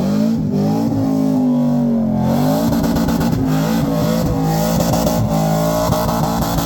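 Truck engine revving: its pitch sags over the first two seconds, then climbs and holds high.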